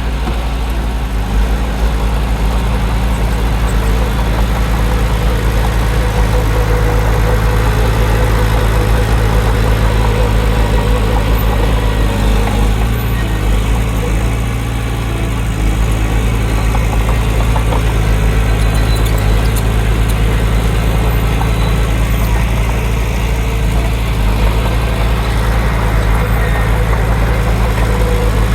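Heavy diesel engine of earthmoving equipment running steadily with a deep, even hum.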